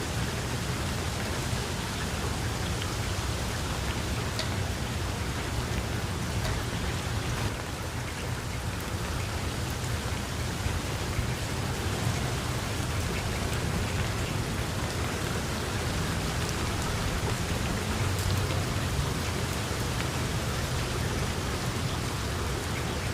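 Heavy rain falling steadily, a dense continuous hiss of drops on surfaces with a low rumble underneath.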